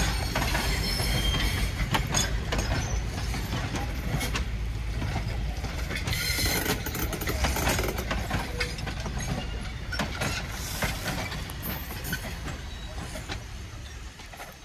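Passenger railroad coaches rolling slowly past: a low rumble with the wheels clicking and knocking over the rail joints. It fades over the last few seconds as the last coach goes by.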